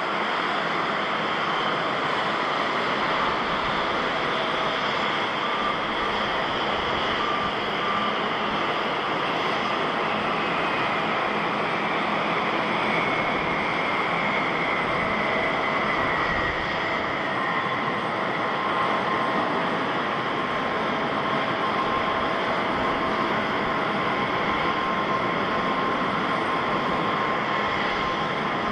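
Jet airliner engines running as a steady, even noise, with faint whining tones; one whine slides down in pitch about halfway through.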